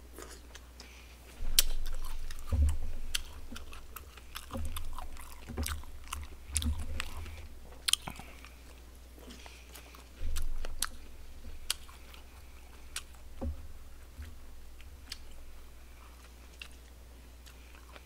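A man chewing a mouthful of barbecued pork close to a microphone, with many wet mouth clicks and smacks throughout and a few short low thumps.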